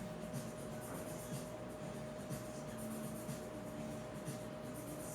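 Faint scratching of writing, short irregular pen strokes, over a thin steady hum.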